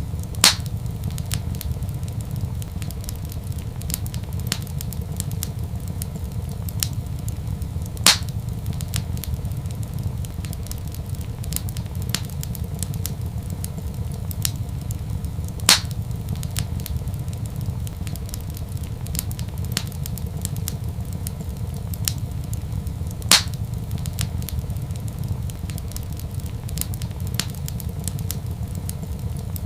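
Wood fire crackling in a fireplace: a steady low rumble with frequent small crackles, and four louder pops evenly spaced about seven and a half seconds apart.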